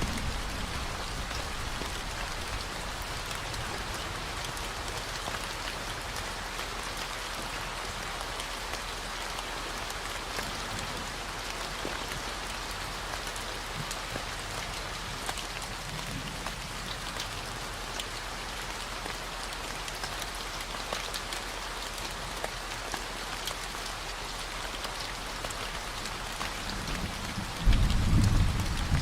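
Steady rain with scattered drop ticks, over a constant low 40 Hz tone. About a second before the end a loud low rumble of thunder sets in.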